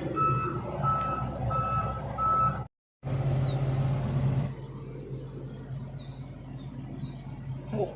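Volvo EC350DL excavator's travel alarm beeping, about three beeps every two seconds, over its diesel engine running. The beeping stops at a break about three seconds in; the engine runs on and becomes quieter about halfway, with a few short bird chirps.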